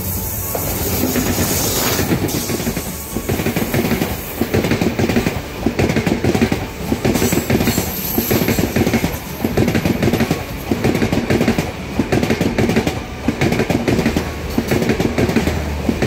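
Sri Lanka Railways Class M11 diesel-electric locomotive passing close by, growing louder over the first couple of seconds as it arrives. Its passenger coaches follow, their wheels clattering over the rail joints in a steady clickety-clack rhythm.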